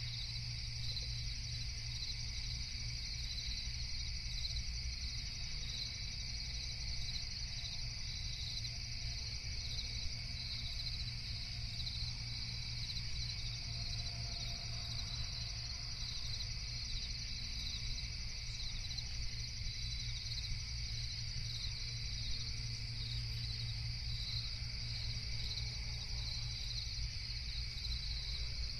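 Night chorus of crickets chirping in a steady, unbroken trill, over a low steady rumble.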